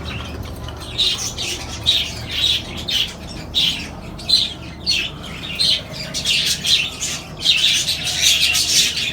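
Many small pet parrots in an aviary calling together, short squawks and chirps several times a second that grow denser near the end, over a steady low hum.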